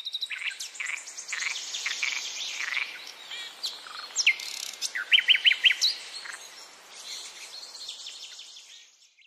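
Several birds chirping and singing together, with fast high trills and a run of about five loud, quick notes about five seconds in. The birdsong fades away near the end.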